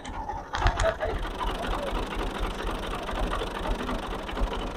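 Tractor engine idling steadily with a busy mechanical rattle, a few sharp clicks about half a second in.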